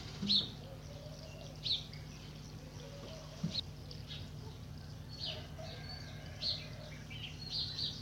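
Short, high bird chirps, about one a second, over a faint, steady low hum.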